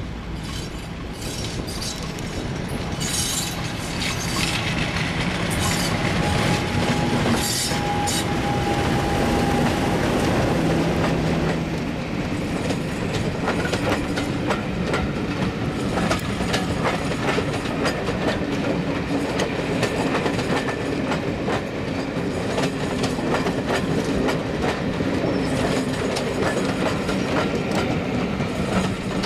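Preserved diesel locomotive running with a train, its engine droning steadily while the wheels clatter over the rail joints, with a few brief squeals from the wheels in the first ten seconds.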